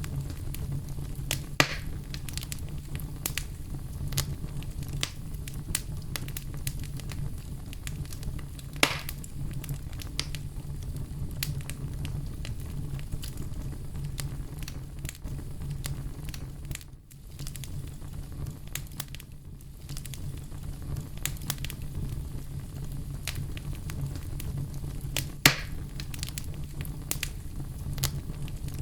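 Campfire burning: a steady low rumble of flames with frequent small crackles and three louder pops, about two, nine and twenty-five seconds in.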